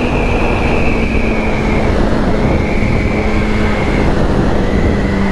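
2008 Yamaha R6's inline-four engine running while riding, with heavy wind rush. The engine note drops right at the start, then eases slowly lower and holds steady.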